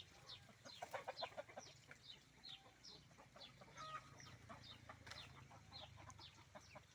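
Faint calls of a flock of chickens: many short, falling calls, a few a second.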